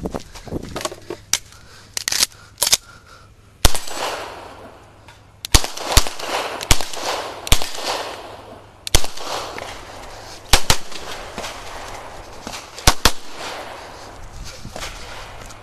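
9mm CZ Shadow 2 pistol fired in a rapid string of about a dozen shots, several in quick pairs, with uneven pauses between groups.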